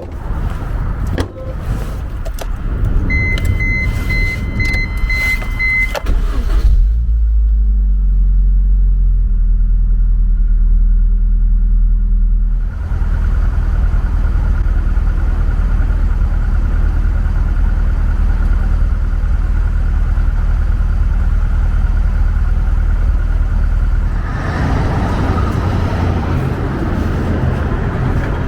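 Car heard from inside: a few clicks and a short run of repeated electronic beeps. Then the engine runs with a heavy low rumble and shifting pitch, and the car settles into steady driving noise that becomes rougher and louder near the end.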